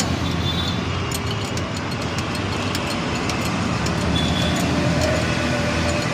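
Steady rumble of motor vehicles and road traffic, with many small sharp clicks scattered through it.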